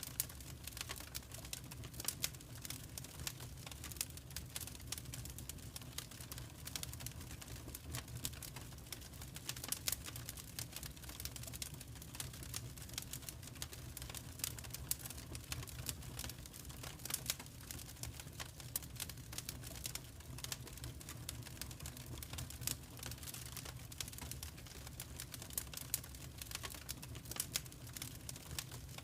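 Fireplace fire crackling: irregular sharp snaps and pops over a low, steady rumble.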